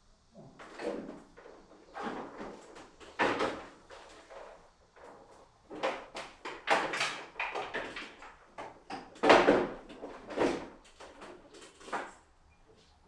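A string of irregular knocks and clattering handling noises, about a dozen spread unevenly, the loudest a little after the middle.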